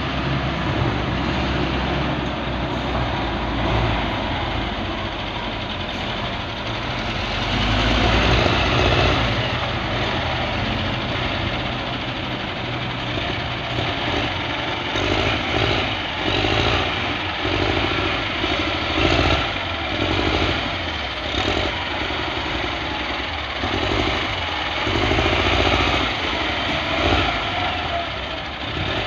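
A motor vehicle's engine running, swelling louder about eight seconds in, then revving up and down in repeated surges through the second half.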